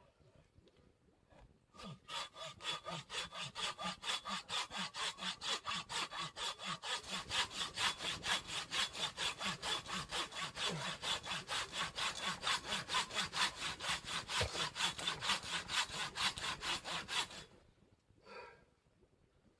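Hand saw cutting with rapid, even back-and-forth strokes, starting about two seconds in and stopping a couple of seconds before the end.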